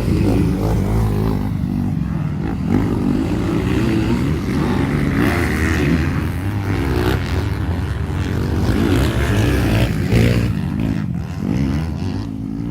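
Racing motorcycle engines running at high revs, their pitch wavering up and down.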